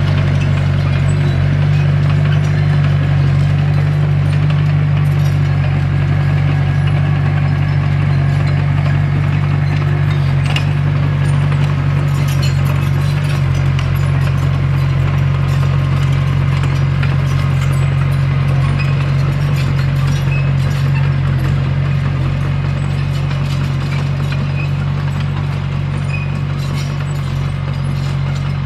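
Komatsu D21P crawler bulldozer's diesel engine running steadily under load, with scattered clacks from its steel tracks. It eases off slightly near the end.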